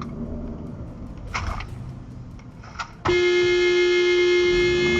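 Low road and traffic noise, then about three seconds in a car horn sounds in one long, steady blast held for over two seconds: a warning at a car turning across its path in a U-turn.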